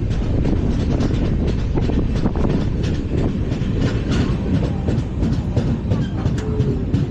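LHB passenger coaches running on the track at speed: a steady, loud wheel-on-rail rumble with many quick, sharp clicks and clacks.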